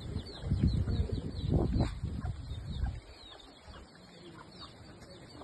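A bird calling a steady run of short, high, falling chirps, over a low rumble on the microphone that stops about three seconds in.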